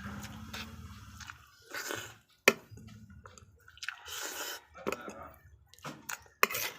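Close-up eating sounds: wet chewing in short irregular bursts, with two sharp clicks, the loudest about two and a half seconds in and another near the end. A low hum fades out in the first second or so.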